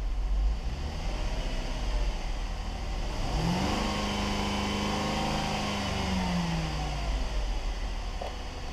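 2015 Cadillac SRX 3.6L V6 engine idling, revved once about three seconds in, held for a couple of seconds, then dropping back to idle.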